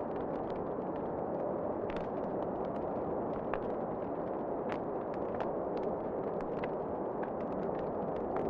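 Wood fire crackling in a fireplace: irregular sharp pops and snaps, several a second, over a steady low rushing.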